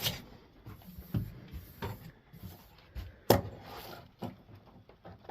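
The tail of a hand-plane stroke along a board edge at the very start, then scattered light knocks and clunks of wood and tools being handled, with one sharp knock a little over three seconds in.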